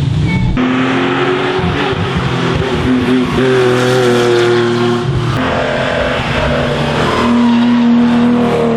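Racing car engine accelerating hard up the hill, its pitch climbing and then dropping at each gear change, with shifts near the start, about a third of the way in, past halfway and near the end.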